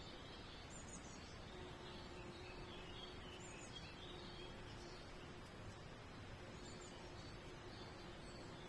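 Faint twittering of small songbirds, short scattered chirps over a steady outdoor background hiss, with a faint low hum fading in and out.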